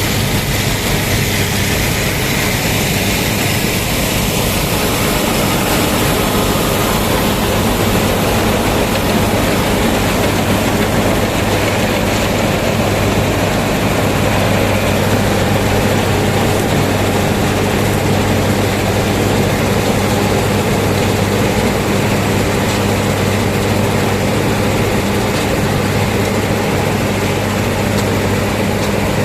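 Köla Combi Special combine harvester running steadily under load: a constant engine hum with the dense clatter and rush of its threshing machinery.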